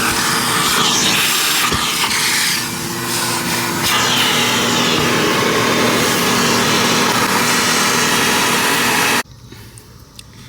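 Loud, steady rushing hiss of car wash equipment running, cutting off abruptly about nine seconds in.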